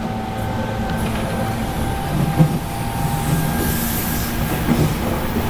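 Cabin running sound of a JR Kyushu 813 series electric train, recorded in a motor car: a steady rumble of wheels on the rails with a steady whine from the traction motor equipment.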